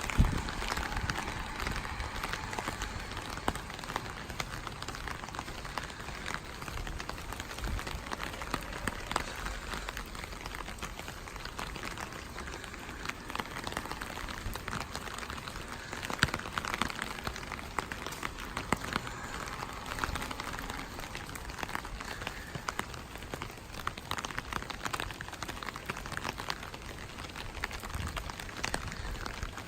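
Steady rainfall with many sharp drop ticks throughout, and a louder knock just after the start and another about 16 seconds in.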